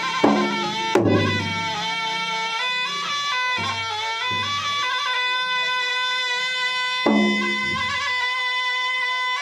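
Traditional Makassar–Bugis gendang wedding music. A shrill reed pipe plays a continuous melody that steps up and down in pitch, while the gendang drums strike a few loud beats: two close together near the start and another about seven seconds in.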